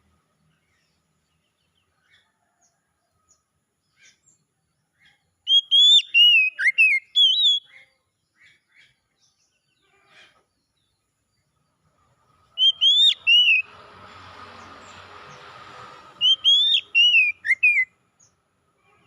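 Oriental magpie-robin (kacer) singing three phrases of loud, quick whistled notes that swoop up and down, with pauses between them. A stretch of hissing noise sits between the second and third phrases.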